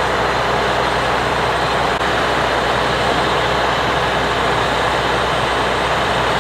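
Steady heavy engine noise: an even hiss with a constant low hum underneath, unchanging throughout.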